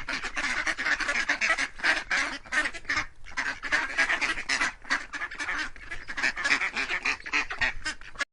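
A large flock of birds calling continuously, many short calls overlapping into a dense chatter, that cuts off suddenly at the very end.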